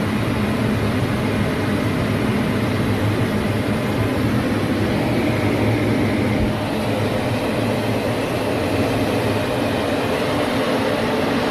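Fighter jet making a low pass overhead: loud, steady engine noise with a deep rumble, holding at much the same level throughout.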